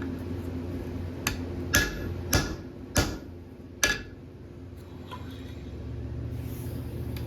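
Blacksmith's hammer striking steel on an anvil, five blows about half a second apart with a short metallic ring, the first one lighter. A steady low hum runs underneath and swells a little near the end.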